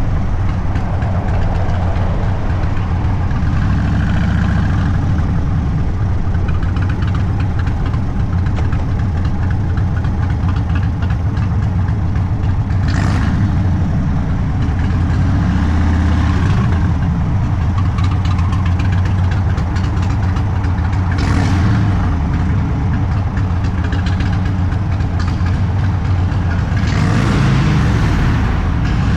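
Indian Sport Chief's V-twin running through an aftermarket Sawicki Speed exhaust, a steady deep rumble at low cruising speed. A few short rushes of hiss come and go about halfway through and near the end.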